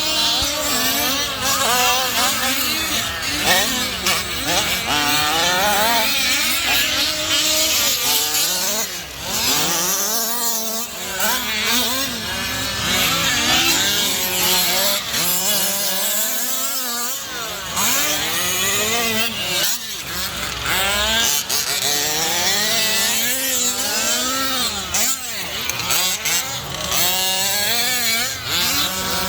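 Several small two-stroke gas engines of 1/5-scale RC cars racing together, their pitches overlapping and repeatedly revving up and dropping back as the cars accelerate and brake.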